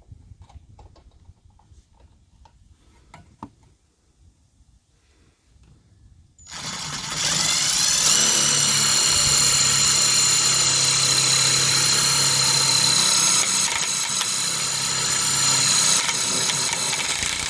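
A power drill runs steadily at one pitch, driving a self-tapping screw. It starts about six seconds in and runs for about eleven seconds. Before it there are only faint clicks of handling.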